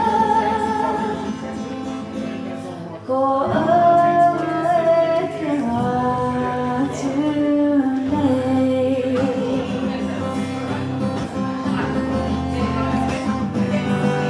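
Live song: a singer holding long notes with vibrato over guitar accompaniment, with a short lull about three seconds in before the next phrase.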